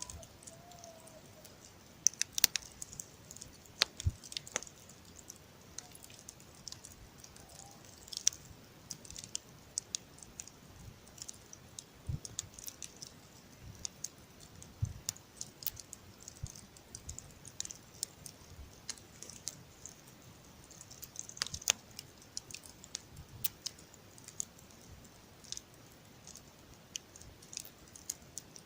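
Campfire crackling: irregular sharp snaps and pops over a faint hiss, with a few louder pops scattered through.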